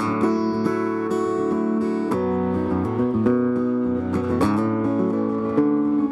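Live country band playing an instrumental passage between verses: strummed acoustic guitar chords ringing out, changing chord about every two seconds.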